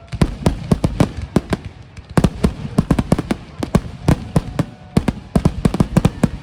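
Firework display: a rapid, continuous barrage of sharp bangs and cracks, several a second, as shells and cakes go off.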